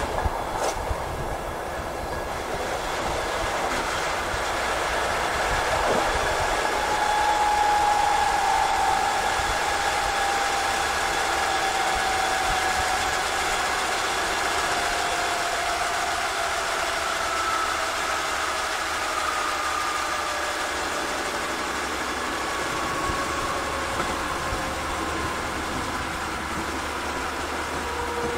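Train running on the rails, heard from the driver's cab: a steady rumble and rush of noise, with a sharp knock twice near the start. From about a quarter of the way in, a whine slowly falls in pitch as the train slows on its approach to a station.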